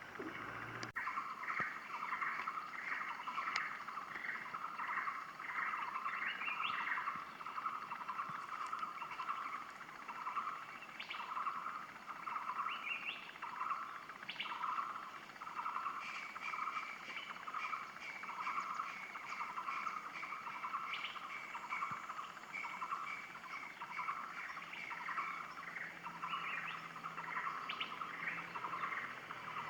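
A bird calling over and over in a steady rhythm, about three short notes every two seconds. A higher second call runs alongside it for the first few seconds and again from about halfway through.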